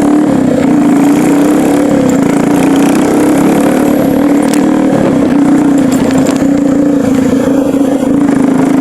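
A vehicle engine running steadily while under way, with a constant low drone and road noise.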